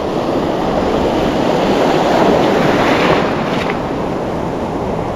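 Ocean surf washing along the shoreline, with wind buffeting the microphone; the wash swells about two seconds in and eases off after.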